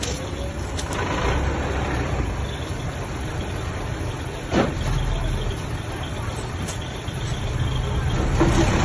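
Diesel engine of heavy earthmoving machinery running steadily with a low rumble, with a single clank about halfway through and the engine getting louder near the end.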